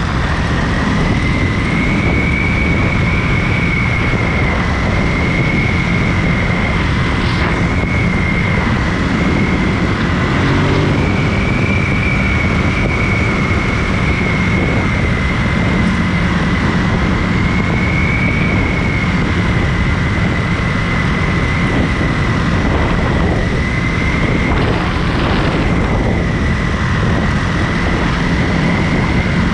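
Ducati Monster 937's 937 cc L-twin engine running at a fairly steady cruise, with wind noise over the microphone. A high whine rides steadily over the engine, its pitch drifting slightly up and down as the speed varies.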